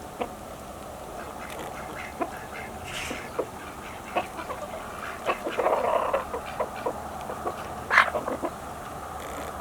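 Domestic poultry calling: ducks quacking among scattered short chicken clucks, with a busier run of calls about six seconds in and one sharp, loud call near the end.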